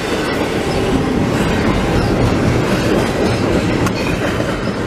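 Canadian Pacific double-stack intermodal freight train rolling past at close range: a loud, steady rumble of wagons with the wheels clacking over the rails.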